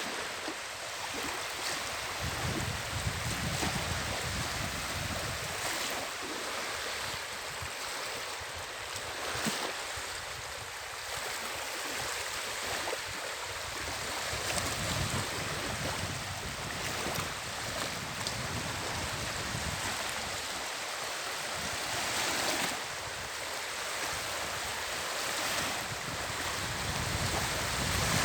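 Sea waves washing ashore in a steady rush, with wind gusting on the microphone as a low rumble that comes and goes every few seconds.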